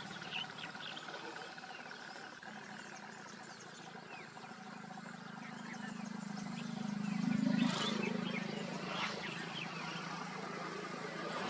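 Many birds chirping in quick short calls, over a low steady hum that swells to a peak about two-thirds of the way through and then fades.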